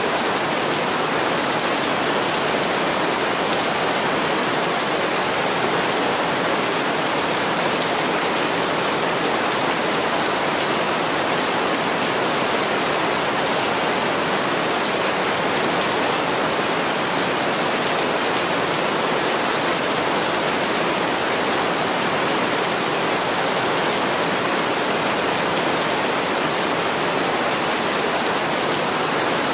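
Heavy rain pouring on a window, a steady, even hiss that never lets up.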